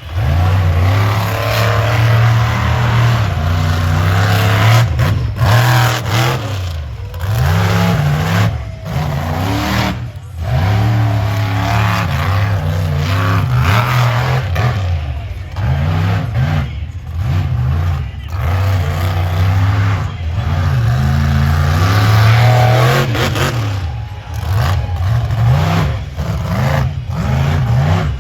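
Monster truck engine revving hard over and over, its pitch climbing and falling, with brief lifts off the throttle every second or two.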